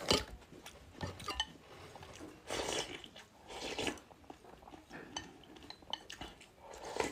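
Cutlery clinking and scraping against dishes during a meal, a few sharp clinks with two short, denser scraping stretches in the middle.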